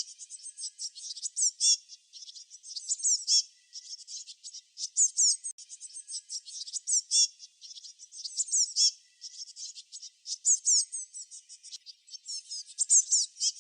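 Small songbirds chirping in a fast, high-pitched chatter, with louder phrases of quick downward-sweeping notes every second or two.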